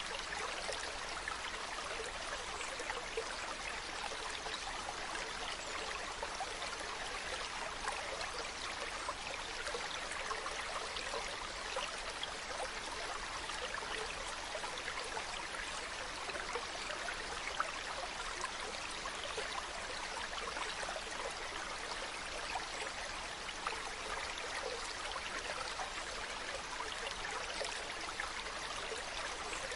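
Mountain stream running steadily over rocks, a constant rushing with fine splashing and trickling.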